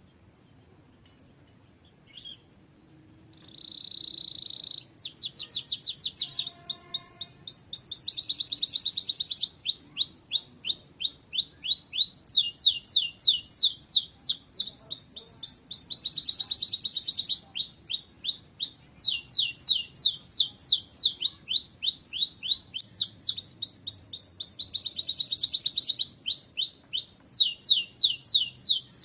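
Domestic canary singing: a short chirp and a held whistle, then a long run of fast trills, each phrase a rapid string of repeated notes, switching to a new phrase every second or two.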